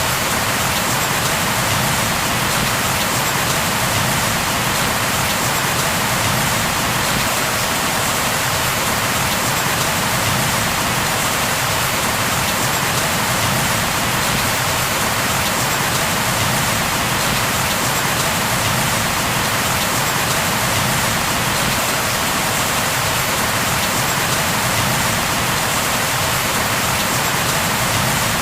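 Steady rain falling on a surface.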